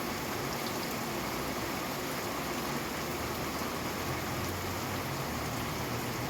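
Steady rain falling, an even hiss with a few faint individual drop ticks.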